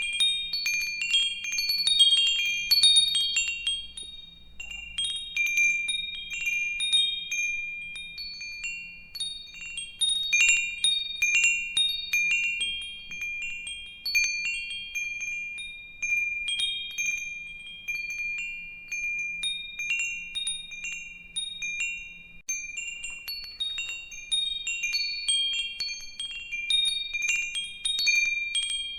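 Wind chimes ringing, with high clear tones struck in irregular clusters as they swing. The strikes come thick near the start, again about ten seconds in and near the end, and thin out in between.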